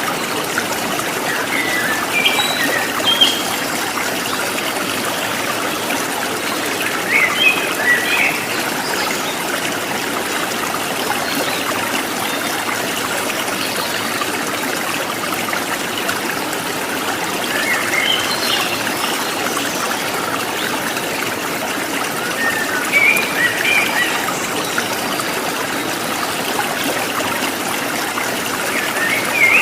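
Running stream water trickling steadily, with short bursts of bird chirping several times.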